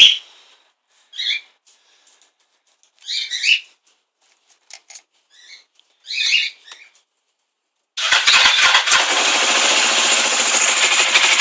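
Suzuki GS500's air-cooled parallel-twin engine starts about eight seconds in and runs on at a steady, loud idle, cold, breathing through a K&N pod air filter on the stock exhaust. Short chirps come before it.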